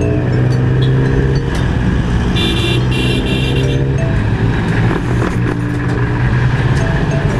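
Riding a Yamaha Mio i 125 scooter in traffic: the engine runs under a steady rush of road and wind noise. A brief high two-part tone sounds about two and a half seconds in.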